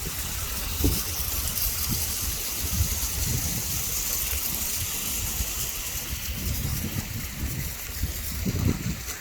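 Heavy rain falling in a steady hiss, with wind buffeting the microphone in uneven low rumbles, strongest about a second in and near the end.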